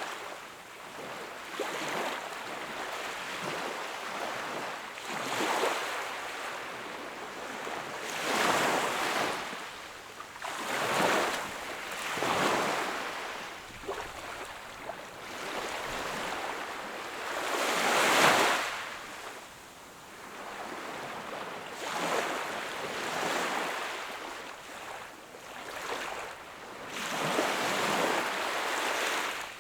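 Sea waves washing onto the shore: surf hiss swelling and falling back, one surge every few seconds, with the biggest a little past the middle.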